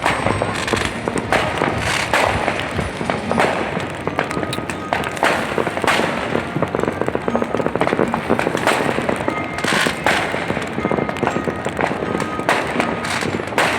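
A fireworks display going off without pause: dense bangs and crackling, several a second, with music playing underneath.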